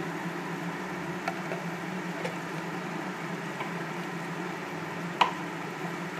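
Onion-tomato masala with a little water cooking in a kadai, a steady bubbling hiss over a low hum, with a few light knocks, the loudest about five seconds in.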